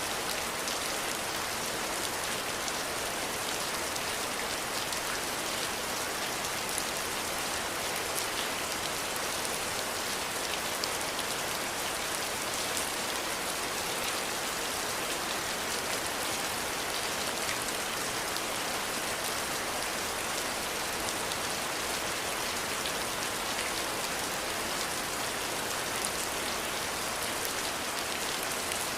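Steady rainfall: an even hiss of rain on surfaces, with fine individual drop ticks scattered through it.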